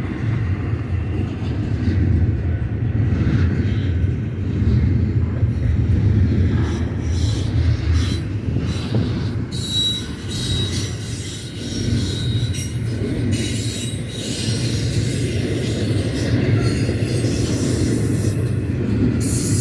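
Double-stack container freight train rolling past with a steady low rumble of wheels on rail, and a thin, high wheel squeal joining in about halfway through.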